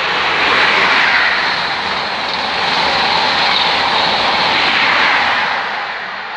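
A train passing at speed along the main line: a loud rush of wheel and air noise with no horn, swelling in, holding for several seconds and easing off near the end.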